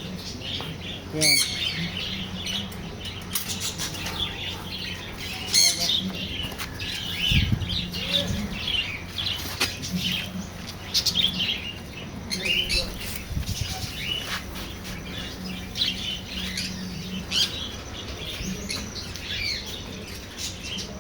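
Many small birds chirping and chattering continuously, with louder squawking calls now and then, over a steady low hum.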